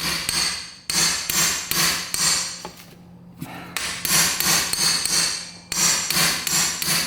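Rapid hammer blows on metal, several to a second in bursts with short pauses, struck to break free a seized engine-cover bolt.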